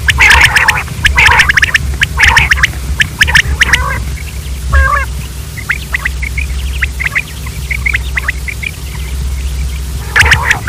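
Common quail calling: dense clusters of short, harsh calls for the first few seconds, then softer scattered chirps, with loud calling again near the end. A steady low hum sits underneath.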